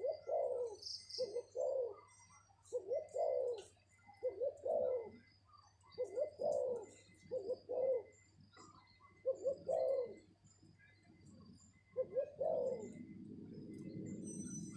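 Spotted dove cooing: about eight short phrases of two or three low coo notes, roughly one every one to two seconds. Near the end a low rustling noise comes in.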